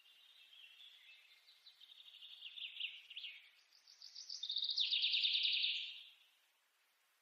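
A songbird singing two rapid trilled phrases, the second louder, stopping about six seconds in.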